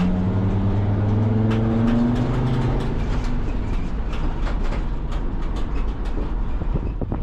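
A vehicle running on the road. A steady engine tone holds for about three seconds, then fades under road noise, with scattered light clicks and rattles. It is likely the 2006 Sprinter van on a test drive after its water pump replacement.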